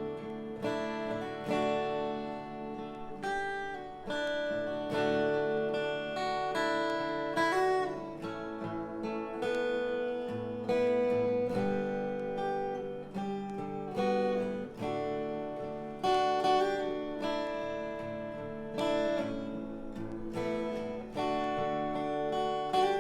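Acoustic guitar playing an instrumental break in a song, plucked and strummed notes ringing over a steady accompaniment.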